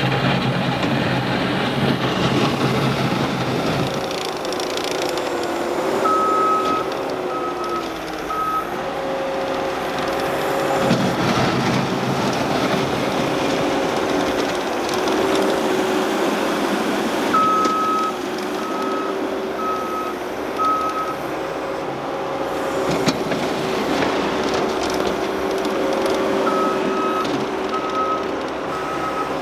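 ASV RT-40 compact track loader's diesel engine running steadily, its pitch sagging now and then under load, with a backup alarm beeping in three runs of quick beeps, about two a second, as the machine reverses.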